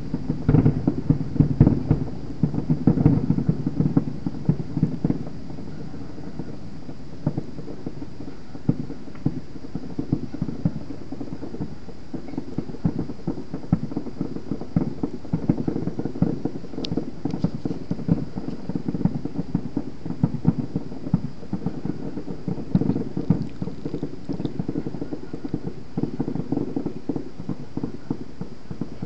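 Fireworks going off in rapid succession: a continuous run of booms and crackling pops, loudest in the first few seconds.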